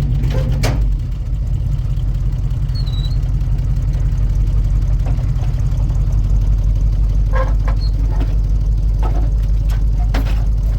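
Vehicle engine running steadily at low speed, with a few light knocks in the last few seconds.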